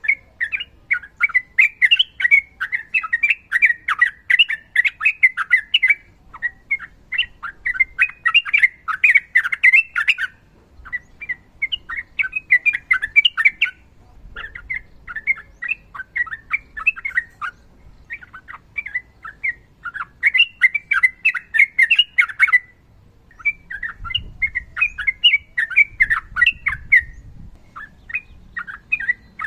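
Sooty-headed bulbul singing long, fast runs of chattering notes, in phrases of a few seconds separated by brief pauses.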